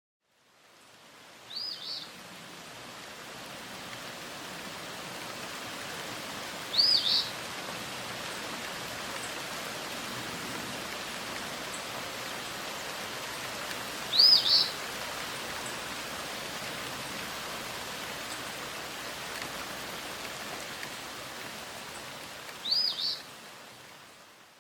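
Outdoor nature ambience: a steady hiss, with a bird calling four times several seconds apart, each call a quick pair of high notes. The ambience fades in at the start and fades out near the end.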